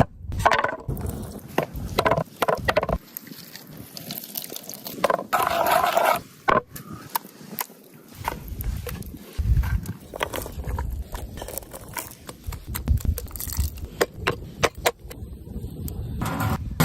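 Irregular scrapes, clicks and knocks from handling food and gear outdoors, in short, abruptly cut shots.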